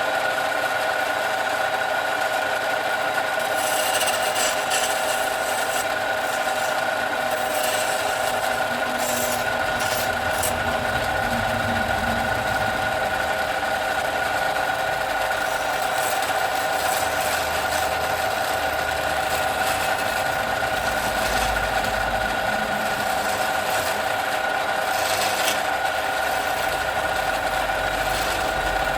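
A motor-driven workshop tool running steadily with an even whine, while a tool or workpiece rasps and scrapes against it.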